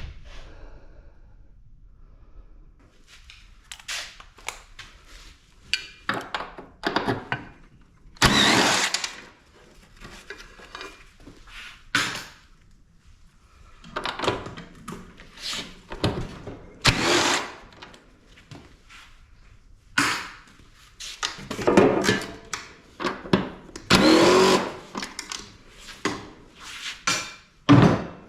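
Handheld power tool run in short bursts, some spinning up in pitch, among knocks of metal, as the compressor is unbolted from a scrap air-conditioning unit.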